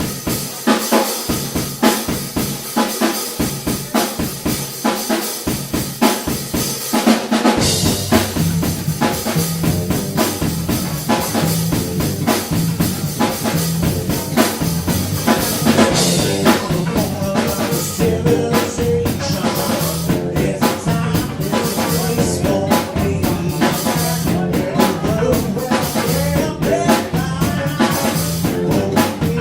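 Live band playing, driven by a drum kit beat with snare and kick hits; a heavy low end comes in about seven seconds in.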